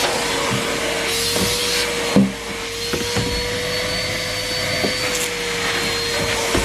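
Numatic Henry Pet vacuum cleaner running, its motor holding a steady whine over the rush of suction. There is one sharp knock about two seconds in and a few lighter clicks.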